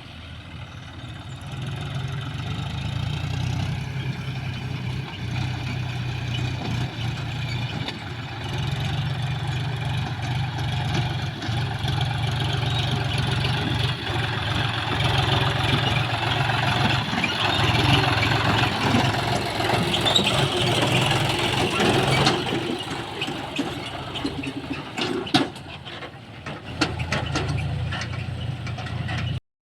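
John Deere 5039 tractor's diesel engine running hard under load, a steady drone that builds louder and fuller through the middle, then eases off a little after about twenty-two seconds, with a few sharp clicks near the end.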